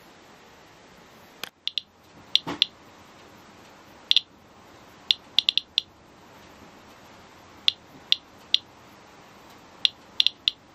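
Radiation Alert Inspector+ Geiger counter clicking at random, uneven intervals: about twenty short, high-pitched chirps, sometimes in quick clusters. Each chirp is one detected count of ionizing radiation.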